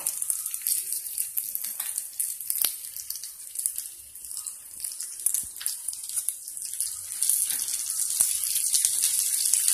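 Urad dal, chana dal and dried red chillies sizzling and crackling as they roast in a teaspoon of oil in a small kadai. The sizzle dips in the middle and grows louder again in the last few seconds, with a few sharp clicks.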